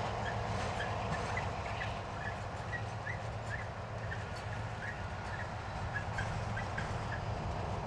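A freight train running, a steady low rumble and hum, with many short, high chirps scattered throughout.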